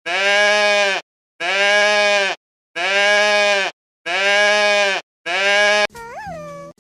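Goat bleating: five loud, drawn-out bleats of about a second each with short pauses between. A quieter, shorter call begins near the end.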